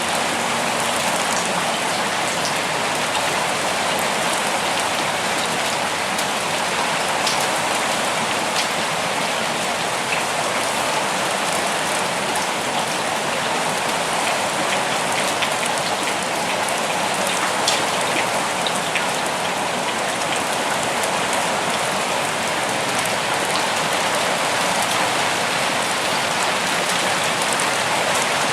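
Steady forest rain: an even hiss of rainfall with scattered sharper drops falling close by.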